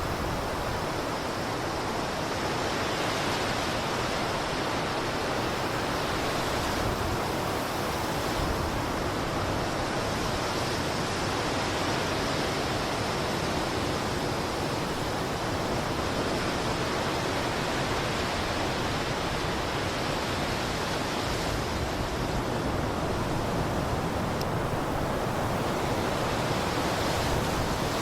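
Blizzard wind blowing steadily as a dense roaring hiss, swelling and easing slowly every few seconds.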